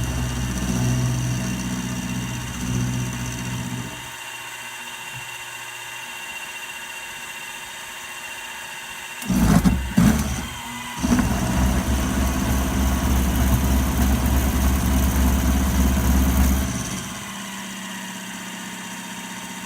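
Milling machine running steadily, with its cutter working on a lathe knurling tool. The cutting is louder for the first few seconds and again for a long stretch in the last third, with a short, very loud burst just before it; in between and at the end only the steady running is heard.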